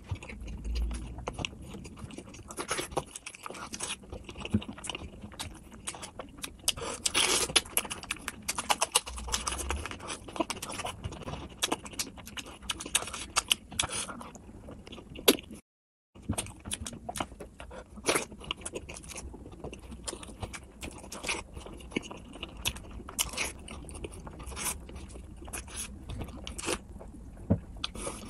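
Close-miked eating of spice-coated whole boiled eggs dipped in thick sauce: wet chewing with many sticky mouth clicks and smacks. The sound drops out completely for about half a second a little past halfway.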